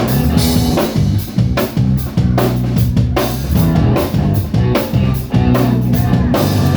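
Live rock band playing: drum kit keeping a steady beat over guitar and bass.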